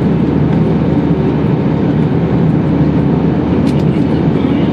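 Steady low cabin noise of a passenger airliner, the drone of its engines and rushing air heard from inside the plane.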